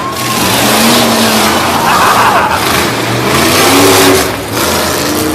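Monster truck engine running loud and revving, rising and falling, with a brief drop about four and a half seconds in.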